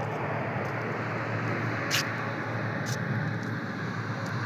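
Steady road and engine noise of a car being driven, with two short clicks about two and three seconds in.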